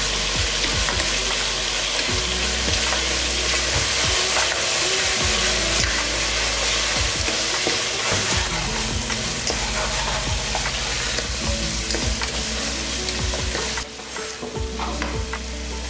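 Onions, garlic, tomatoes and spices frying in sesame oil in a pan, sizzling steadily while a spoon stirs and scrapes through them. The sizzle drops in level about 14 seconds in.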